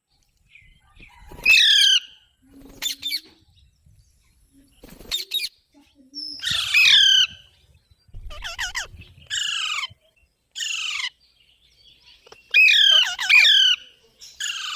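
Rose-ringed (Indian ringneck) parakeet giving a series of loud, harsh squawks and screeches, about eight calls with short pauses between them. Several of the calls fall in pitch.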